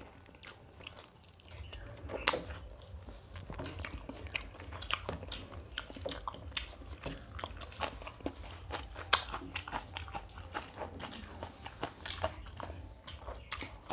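Close-up chewing and eating of mutton biryani by hand: many short wet mouth clicks and smacks scattered throughout, over a low steady hum.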